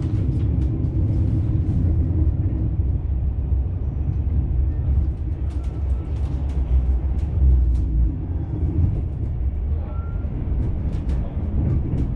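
Steady low rumble of a departing SBB EuroCity train's wheels and running gear, heard inside the passenger carriage, with faint scattered clicks.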